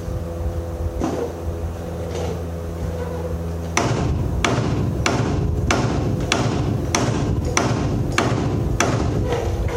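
About ten heavy hammer blows on steel, evenly paced at a little under two a second, starting about four seconds in. This is the hammering used to drive out a Mack truck's steering kingpin. A steady engine hum runs under it.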